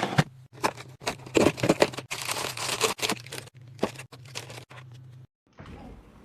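Plastic packaging crinkling and rustling in irregular bursts as grocery items are handled and unpacked, with small knocks and clicks, over a low steady hum that cuts off about five seconds in.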